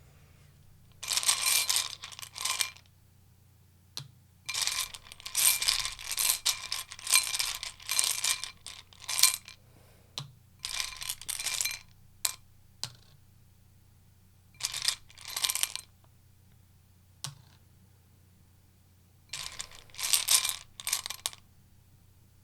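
A deck of tarot cards being shuffled by hand in about five short bursts of rapid papery clicking, with quiet pauses between.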